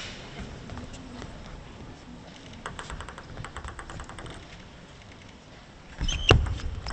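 Quiet arena ambience with a quick run of light ticks in the middle, a table tennis ball being bounced. A few louder knocks come near the end.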